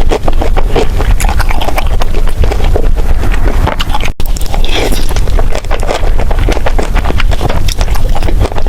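Close-miked chewing of jjajangmyeon noodles for an eating ASMR: a dense run of rapid mouth clicks over a heavy low rumble, broken by a brief dropout about four seconds in.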